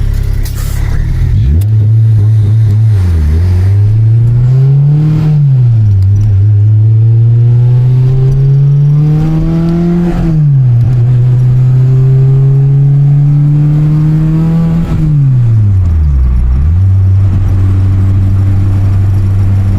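Honda K24 four-cylinder engine in a Civic pulling under throttle. Its pitch climbs slowly, then falls sharply four times, as when revs drop between gears.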